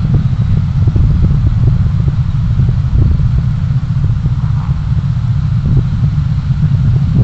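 Steady low rumble of a vehicle driving: engine and tyre noise, with faint small ticks over it.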